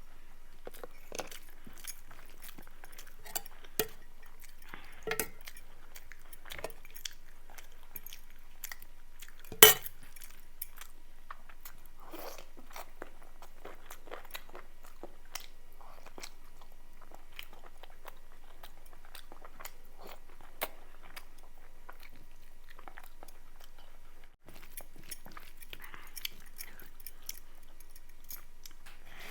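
A person chewing and crunching food close to the microphone, with many small clicks and crackles and one sharp, much louder crack about ten seconds in.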